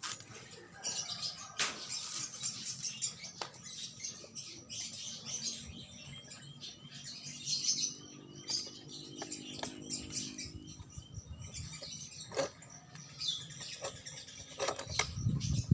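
Birds chirping, with scattered sharp clicks and knocks.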